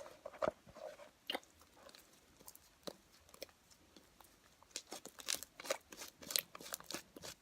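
Thick, sticky glue slime being squished and pulled by hand, giving irregular small wet clicks and crackles, sparse at first and busier from about five seconds in.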